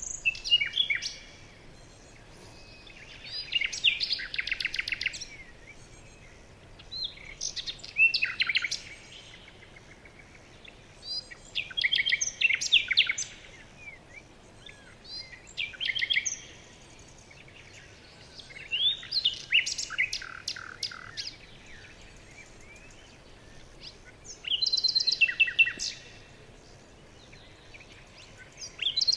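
A songbird singing, repeating a short phrase of whistles and fast trills about every four seconds.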